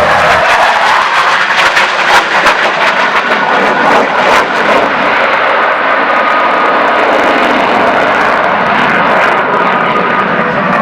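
A jet fighter's engines roar loudly during a flying display, with a crackling rasp in the first few seconds that settles into a steadier roar.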